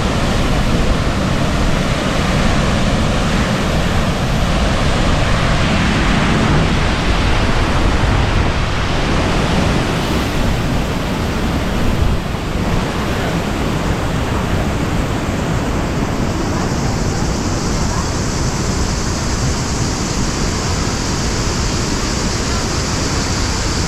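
Waterfall water rushing as a steady, dense noise. Just past the middle the tone shifts, and a brighter hiss comes in about two-thirds of the way through.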